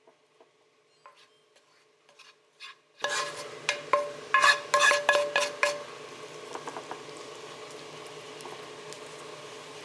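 Food hitting a hot pan and frying. A few faint clicks come first, then a sudden sizzle about three seconds in, with several sharp clatters of a utensil against the pan. After that the frying goes on as a steady hiss.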